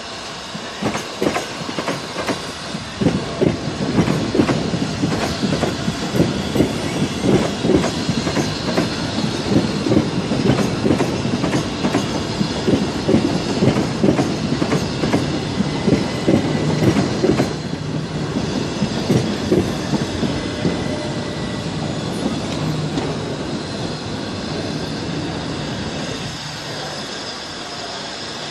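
Southeastern electric multiple unit rolling past close by, its wheels clattering rapidly over rail joints and pointwork. The clatter stops about two-thirds of the way through, leaving a steadier running noise with a low hum.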